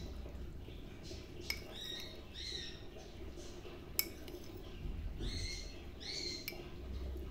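A bird chirping in short, curving calls in small groups every second or two, with a few sharp clinks, like a utensil on a metal pot, in between.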